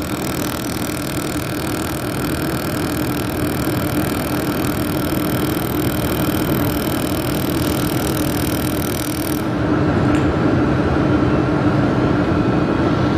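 Handheld fiber laser welding machine running with a steady machine hum, overlaid by a high-pitched hiss and whine that cuts off suddenly about nine and a half seconds in while the hum carries on.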